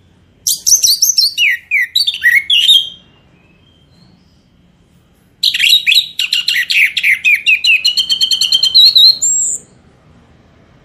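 Songbird singing in two bursts of rapid whistled notes and trills, each note sliding down in pitch, the first burst about two and a half seconds long and the second about four seconds long after a pause: a masteran birdsong recording used to train cage birds.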